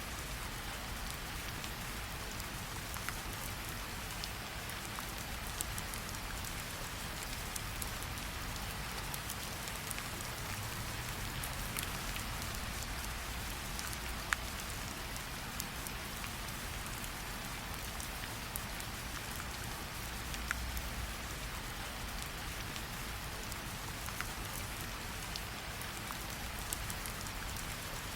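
Steady rain falling, an even hiss, with a campfire's scattered sharp crackles and pops; one louder pop comes about halfway through.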